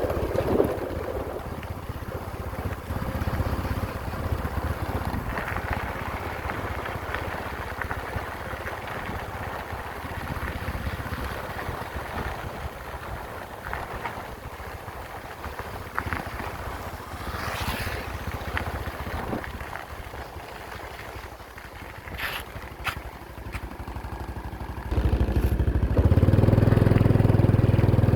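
Heavy road-construction machinery engines running steadily, with a few sharp clicks. Near the end an engine suddenly becomes much louder and deeper and stays that way.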